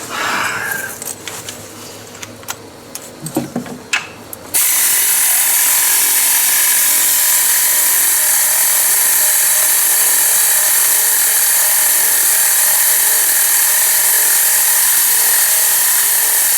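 A few clicks and knocks of hand tools and sockets. About four and a half seconds in, a power tool starts and runs steadily with a high whir, driving a CVT housing bolt, until it cuts off sharply at the very end.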